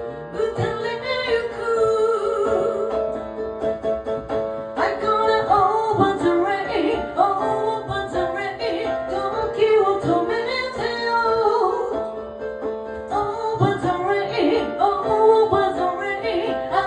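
A woman singing with piano accompaniment, a slow sung melody over sustained piano chords.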